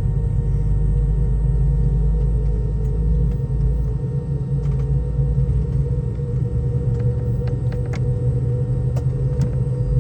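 Cabin noise of a Boeing 717-200 with its rear-mounted Rolls-Royce BR715 engines running: a steady low rumble with a faint hum, and a few light rattles in the second half.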